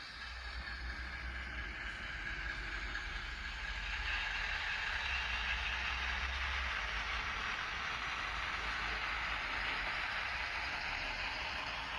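Class 60 diesel locomotive engine sound from a Zimo sound decoder, played through the tiny factory-fitted speaker of an N gauge model, running steadily and getting a little louder about four seconds in.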